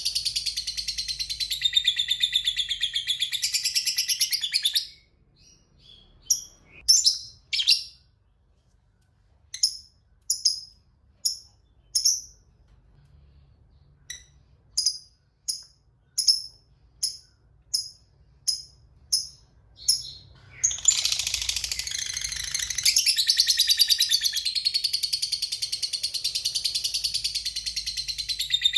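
Lovebird's ngekek: a rapid, continuous high chattering trill that breaks off about five seconds in into single sharp chirps, about one and a half a second. From about twenty seconds in it goes back into the long chattering trill.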